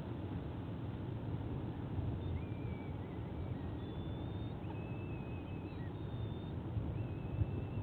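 Steady low outdoor rumble with several faint, thin, high-pitched bird calls, each held for about half a second to a second.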